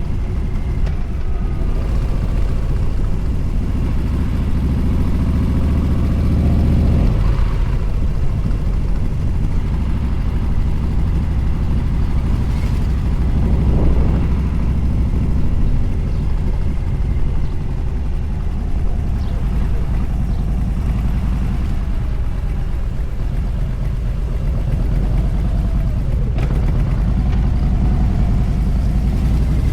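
Motorcycle running at highway speed, with heavy wind rush on the microphone. The engine's steady note changes about seven seconds in.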